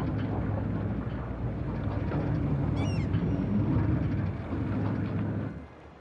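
Steady low hum of a running vehicle engine, ending abruptly near the end, with a brief high chirp about halfway through.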